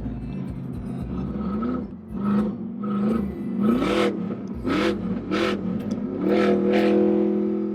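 Pickup truck engine revved in a run of quick blips, each pitch rising and falling with exhaust crackle. About six seconds in, it is held at a steady higher speed.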